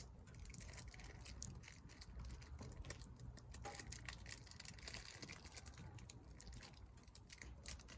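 Wood fire in a fire pit crackling, with irregular small pops and one sharper pop about four seconds in, over a low rumble.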